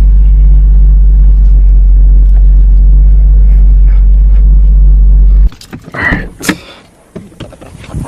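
Car engine running, heard as a loud, steady low rumble that stops suddenly about five and a half seconds in, followed by a few clicks and knocks.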